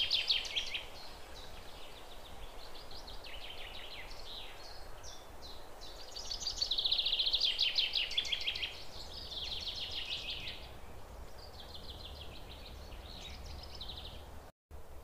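Songbirds singing: a series of rapid trilled phrases, one every couple of seconds, the loudest about seven to eight seconds in, over a faint steady hiss. The sound cuts out briefly near the end.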